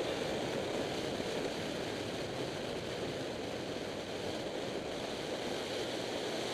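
Steady rush of wind and road noise from a motorcycle riding at speed, with no distinct engine note.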